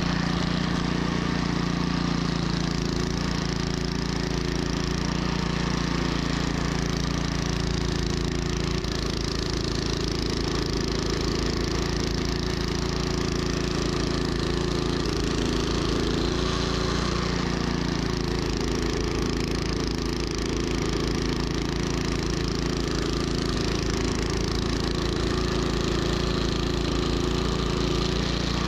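Troy-Bilt snowblower engine running steadily, with an even hiss over the engine note.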